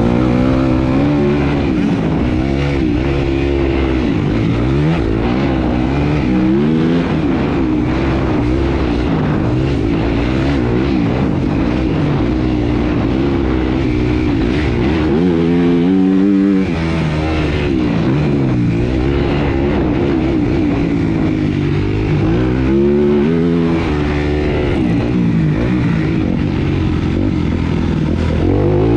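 Motocross dirt-bike engines racing. The pitch rises and falls over and over as the throttle opens and shuts.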